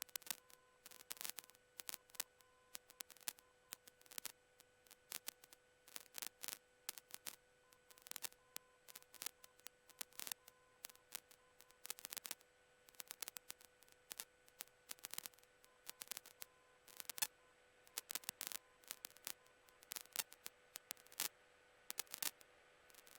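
Faint crackling static on a cockpit intercom audio feed: irregular sharp clicks over a thin hiss and a faint steady electrical hum.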